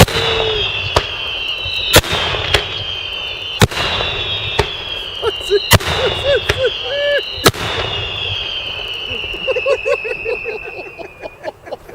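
Daytime fireworks: loud aerial bombs bursting about every two seconds, each followed by a high whistle that slides down in pitch. Near the end the blasts give way to a quick run of small crackling pops.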